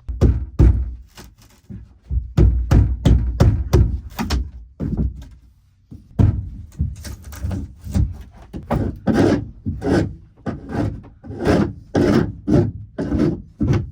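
Repeated knocking and scraping as old floor is broken and pried out of a fiberglass boat hull, several sharp strikes a second with short pauses about 2 and 5 seconds in.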